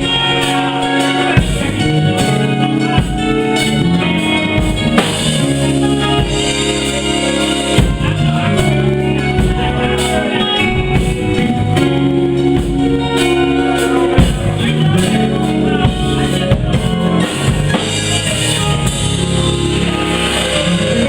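Live blues/R&B band playing an instrumental passage, with drum kit and guitar.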